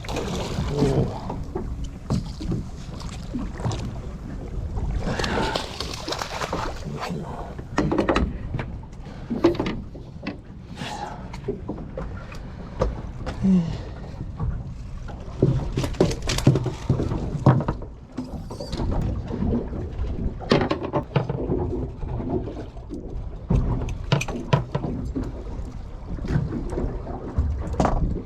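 Noise on a small fishing boat at sea: a steady low rumble of wind and water, broken by irregular short knocks and splashes.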